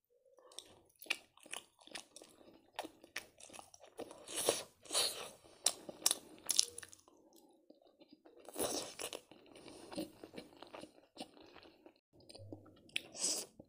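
A person chewing and slurping thick spicy noodles: a run of irregular wet mouth smacks and crunches, with a few longer slurps in between.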